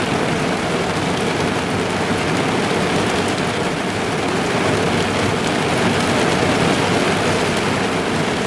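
Steady rain falling on a car's roof and windows, heard from inside the car as an even, dense patter with scattered individual drop ticks.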